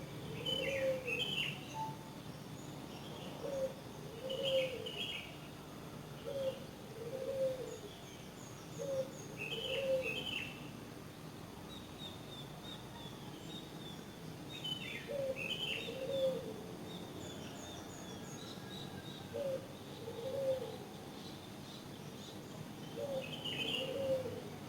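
Birdsong: a low two-note call, a short note then a longer arched one, repeats every few seconds alongside higher chirps from small birds.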